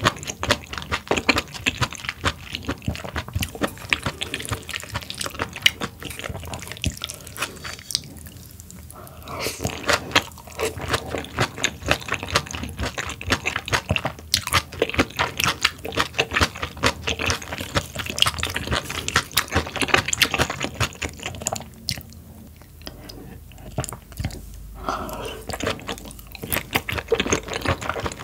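Close-miked chewing of raw sturgeon: a dense run of wet, crunchy mouth clicks, with a couple of brief lulls between bites.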